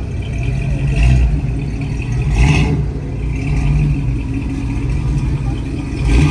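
Car engines running with a deep, loud rumble, with a brief sharp noise about two and a half seconds in.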